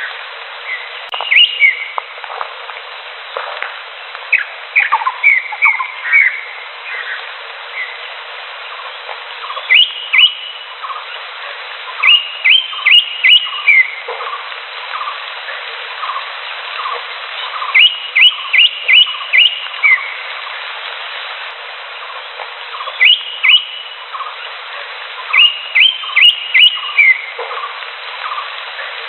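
Green leafbird (cucak hijau) calling: quick runs of two to five sharp, rising whistled notes, repeated every few seconds. Underneath is a steady string of softer, lower notes about twice a second.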